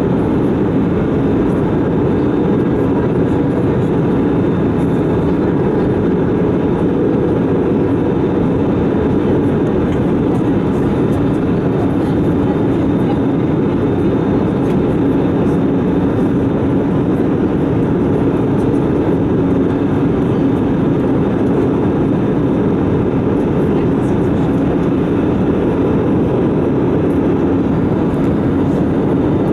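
Steady cabin noise inside an Airbus A320 in flight: an even rush of engines and airflow with a constant low hum, unchanging throughout.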